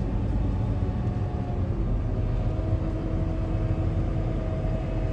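Vehicle engine running steadily: a low drone with a faint steady whine above it.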